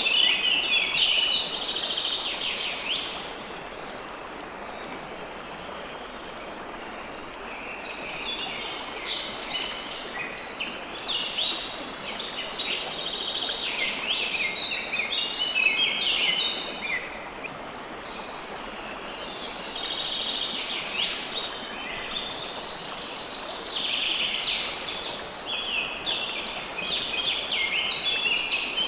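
Songbirds singing in bursts of rapid, high chirping phrases over a steady rush of running water. The birdsong pauses for several seconds a few seconds in, then returns and grows denser towards the end.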